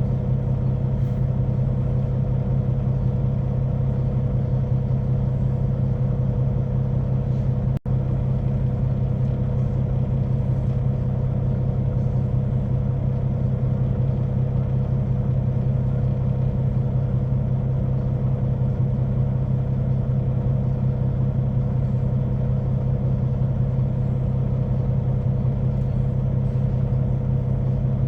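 Semi-truck's diesel engine idling steadily, a constant low drone with a faint steady hum above it, broken by a momentary dropout about eight seconds in.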